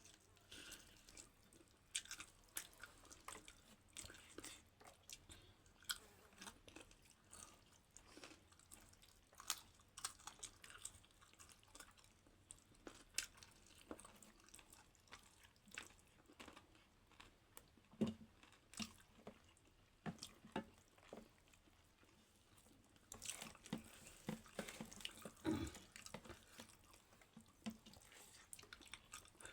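Quiet, close-up chewing of dhido dough with chicken gravy, with many small wet clicks and squishes, busier a few seconds before the end.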